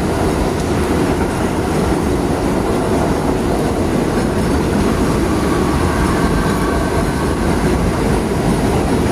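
An elevated subway train running past with a steady rumble of wheels on the rails and a faint wheel squeal in the middle, over the hiss of heavy rain.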